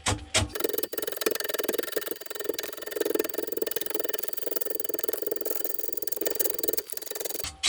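Wood lathe spinning an out-of-round poplar log while a gouge roughs it: the rhythmic knocking of the tool striking the high side each turn, about four to five a second, stops about half a second in. A steady hiss with a hum follows, and the rhythmic knocking comes back near the end.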